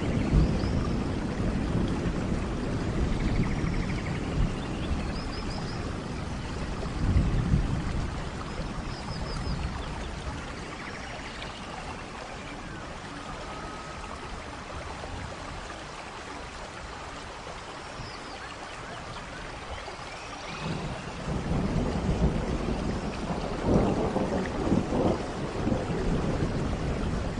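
Thunderstorm in a rainforest: steady rain with low rolling thunder that dies down through the middle and builds again about three quarters of the way in, crackling near the end.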